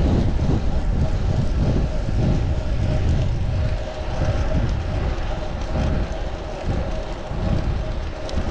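Wind buffeting the microphone of a chest-mounted action camera on a moving bicycle, heard as a steady, heavy rumble, with road and traffic noise and a faint steady hum underneath.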